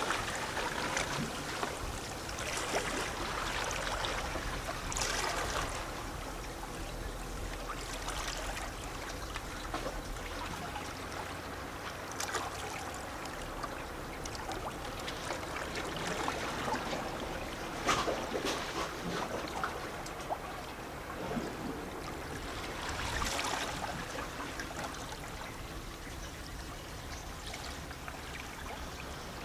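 Small sea waves lapping and sloshing against shore rocks, a steady gurgling wash with a few louder splashes as bigger wavelets break, about 5, 12, 18 and 23 seconds in.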